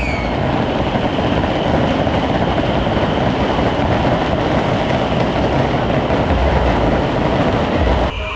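Fireworks crackling and hissing in a dense, unbroken stream, cutting off abruptly near the end.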